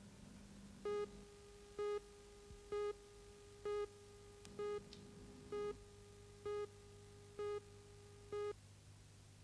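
Nine short electronic beeps of one steady mid-pitched tone, evenly spaced about a second apart, over a faint low hum.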